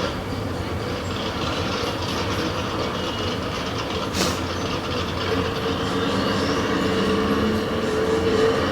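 Drag-race vehicles' engines running, a heavy steady mechanical noise whose pitched engine note and loudness build toward the end, with a faint rising whine about six seconds in and one sharp click about four seconds in.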